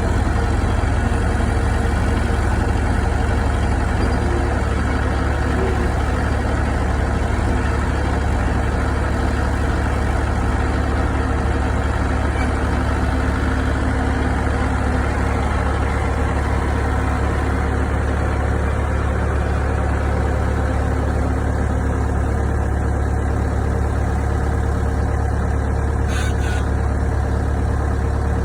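Hydraulic excavator's diesel engine running steadily, a deep, even drone with no revving.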